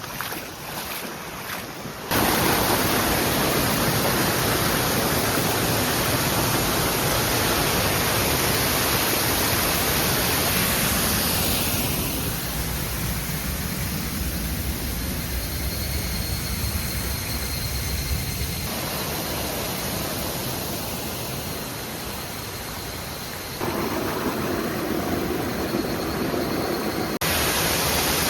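Steady rush of flowing water, a dense hiss that starts suddenly about two seconds in and changes in loudness and tone abruptly a few times.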